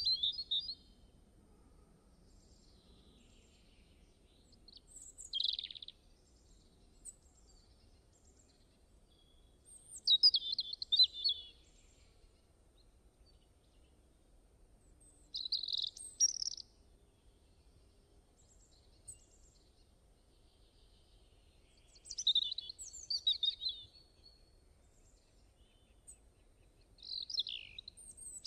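A songbird singing short, high chirping phrases, one about every five or six seconds, with a faint steady background hiss between them.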